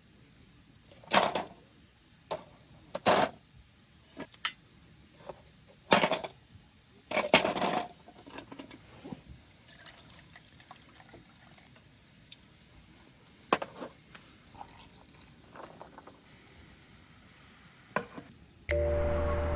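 Cookware and utensils being handled for a meal: scattered knocks and clinks, some with a short ring, the loudest in the first eight seconds and sparser after. Background music comes in near the end.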